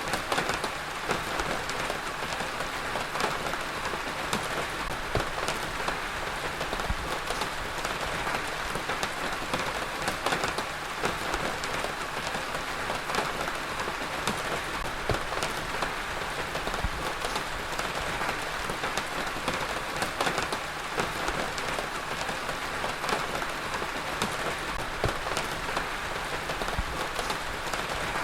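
Heavy rain falling steadily on a surface, a dense even hiss dotted with many individual drop ticks.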